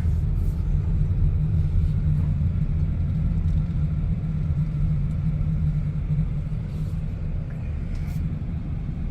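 A car driving along, its engine and tyre noise making a steady low rumble.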